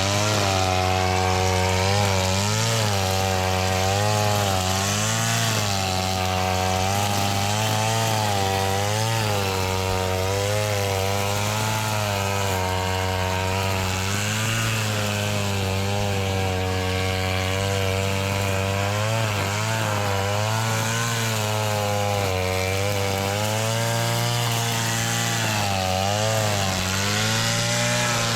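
Small engine running steadily, its pitch dipping and recovering every second or two as it takes load, consistent with powered lawn mowing.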